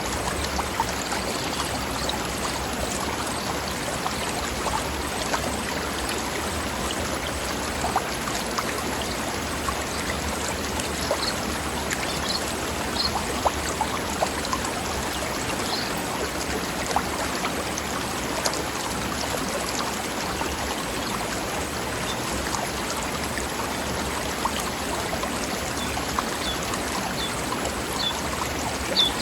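Mountain stream running steadily over rocks, with a constant rush and a few short high chirps, mostly near the middle and end.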